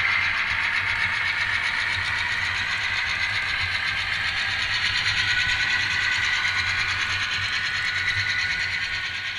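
ESU LokSound decoder in an N scale Atlas GP38-2 playing its EMD 16-cylinder diesel engine sound through the model's small onboard speaker. The sound is a steady, tinny running note with a fine even pulse, drifting slightly in pitch and easing a little near the end.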